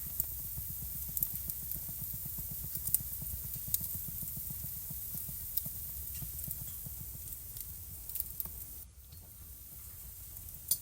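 Wood fire crackling in a fireplace: scattered sharp pops and snaps over a steady low rumble of burning logs, with a sharper pop at the very end.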